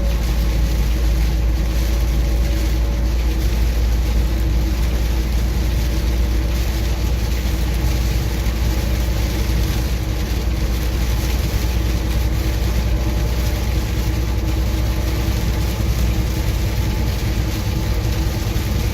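Steady drone of a heavy truck heard from inside the cab at highway speed in heavy rain: a low engine and road rumble with the hiss of tyres on a wet road and rain on the cab.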